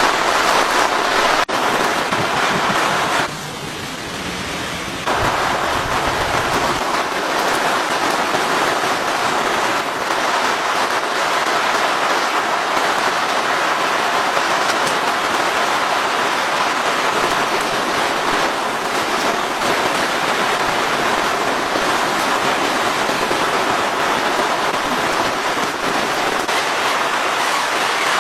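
Steady, loud rain falling, briefly quieter for a couple of seconds about three seconds in.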